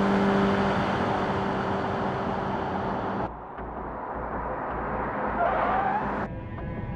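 Cars on the road heard from dashcam clips: loud road and engine noise with a steady low tone that cuts off abruptly about three seconds in. The noise then rises again, and a brief wavering tyre squeal comes shortly before the end.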